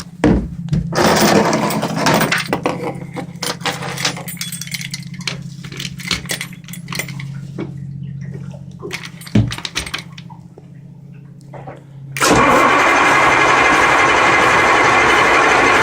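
Cummins V555M V8 marine diesel cold-starting. A steady low hum with scattered knocks and clicks runs for about twelve seconds, then the engine catches suddenly about twelve seconds in and runs loud and steady.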